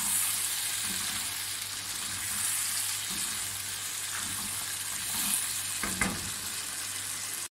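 Meat and masala sizzling in oil in a non-stick karahi, with a spatula stirring and scraping now and then. The yogurt has cooked dry, and the masala is frying in the oil that has come out of it.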